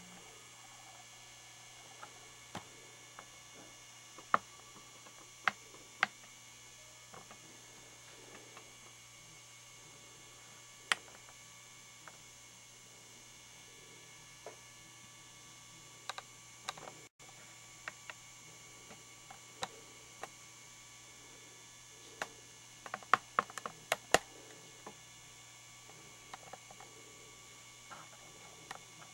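Lighted Olympia beer waterfall motion sign running with a low, steady electrical hum, broken by scattered sharp clicks, with a quick cluster of them near the end.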